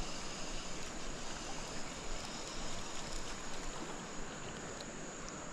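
Creek water running steadily, with insects sounding a steady high note behind it.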